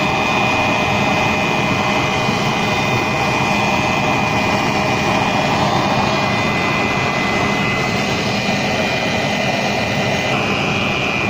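Home-made used-engine-oil burner stove running with its electric air blower on: a steady rush of forced air and flame, with a faint constant high whine.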